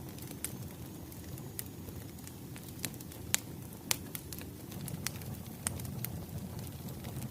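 Wood fire crackling: a low steady burning rumble with irregular sharp pops and snaps, two louder snaps a little after three seconds and near four seconds in.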